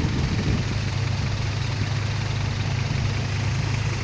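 Dump truck's diesel engine idling steadily, an even low hum.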